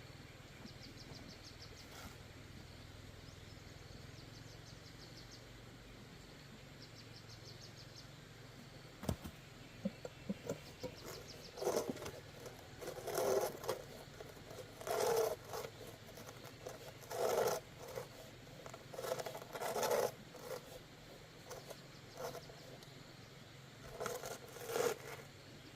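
A faint steady hum, then starting about nine seconds in, a series of short scraping or rubbing strokes, each under a second, about a dozen in all.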